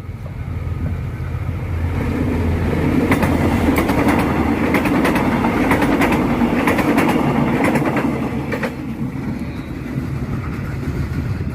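Prambanan Express (Pramex) commuter train passing close by: a rumble that builds, wheels clattering in quick clicks over the rail joints as the cars go past, then easing off near the end.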